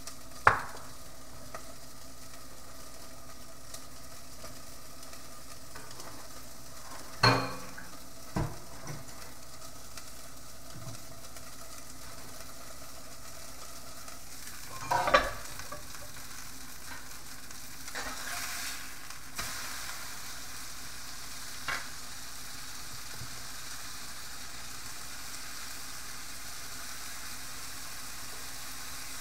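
Food sizzling as it fries in a cast-iron skillet, with a handful of sharp clanks and knocks from a spatula, the pan lid and the skillet on the stove.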